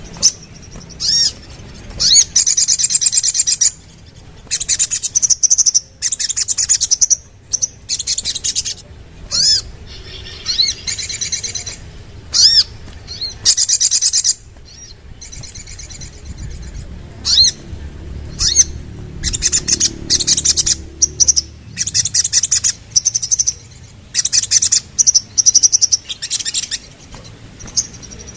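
Ruby-cheeked sunbird (sogon) singing: bursts of rapid, high-pitched twittering trills alternating with short single chips, with brief pauses between phrases.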